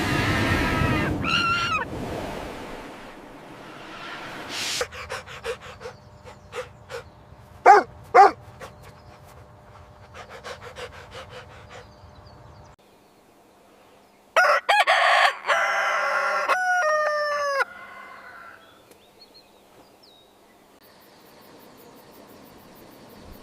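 A string of short animal calls and noises: a pitched call at the start, scattered clicks with two sharp loud sounds about eight seconds in, then, after a short quiet gap, loud calls falling in pitch.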